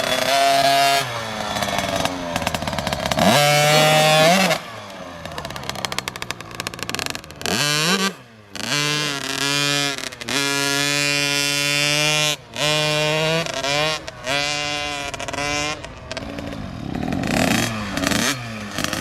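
Dirt bike engine revving hard in a burnout, the throttle opened and closed in several long bursts with brief drops between them as the rear wheel spins and throws dirt.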